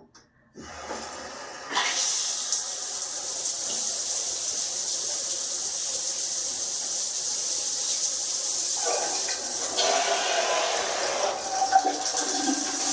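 Water spraying from the G-Promise all-metal shower head: it comes on about half a second in, comes up to full flow about two seconds in, then runs as a steady hiss of spray.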